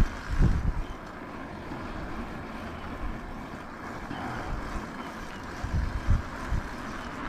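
Wind rushing over the microphone of a GoPro on a moving e-bike, with irregular low buffeting gusts and road noise.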